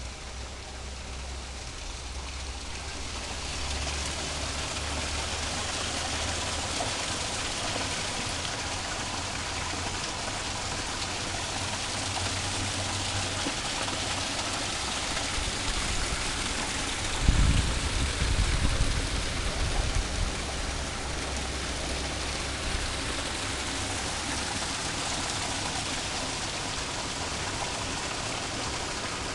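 Steady hiss of running or falling water that builds over the first few seconds, with a low rumble underneath. A cluster of low bumps about two-thirds of the way through is the loudest moment.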